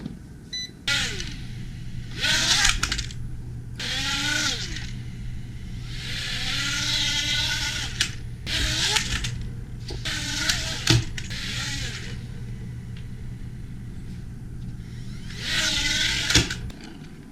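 Small quadcopter drone's motors and propellers spinning up in repeated bursts of a few seconds, the whine rising and falling in pitch over a steady low hum, with a few sharp knocks. The drone has a fault: it lifts off and then drops to the floor.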